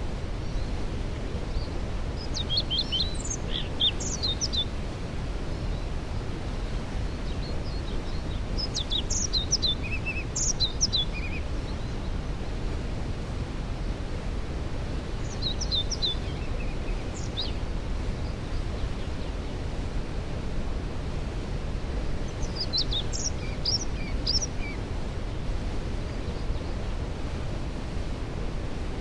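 Steady rush of a waterfall in the background, with a songbird singing a short, quick phrase of high notes four times, roughly every six seconds.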